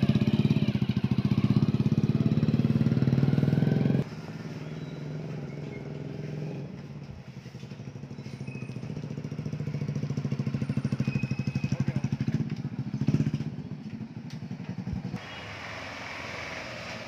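Hero Honda Splendor's single-cylinder four-stroke engine running through an aftermarket TWPO racing exhaust, with a fast, even exhaust beat. It is loud and close at first, drops in level after about four seconds, swells to a brief rev about three-quarters in, then drops again.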